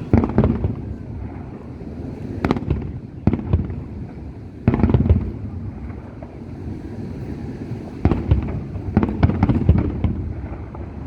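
Fireworks display: a string of sharp bangs from bursting firework shells at uneven intervals, some in quick pairs, over a continuous low rumble.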